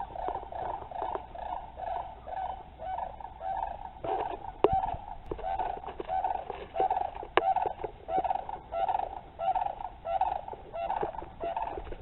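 A couple of sandhill cranes calling over and over, about two calls a second without a break, with two sharp clicks in between.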